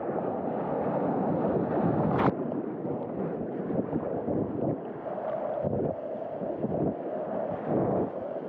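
Surf water rushing and splashing around a waveski on the water, with wind buffeting the microphone. A single sharp click sounds about two seconds in.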